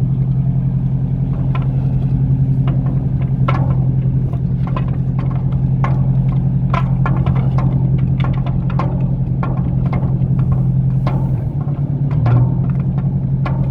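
Launch boat's engine running with a steady low drone, with irregular clicks and knocks over it; the drone dips and shifts briefly near the end.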